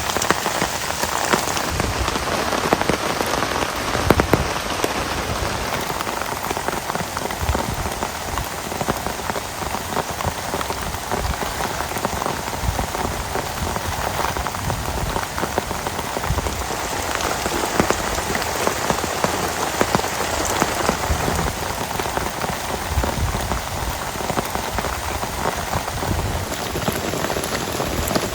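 Heavy rain falling steadily, with many individual drops striking close by as sharp ticks.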